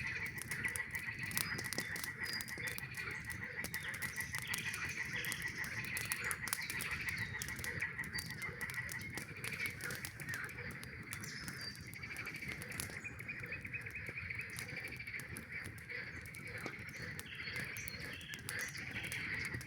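A chorus of frogs calling, many overlapping calls forming a steady pulsing band, with a campfire crackling over it in frequent sharp pops.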